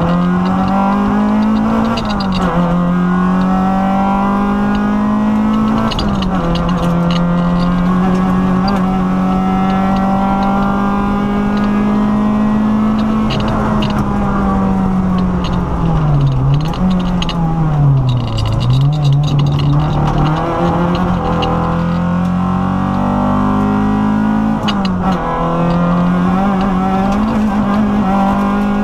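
Peugeot 205 rally car's four-cylinder engine heard from inside the cabin, run hard at high revs with quick drops in pitch at each gear change. About halfway through the revs fall away and dip twice as the car slows for a corner, then climb again as it pulls hard out of it.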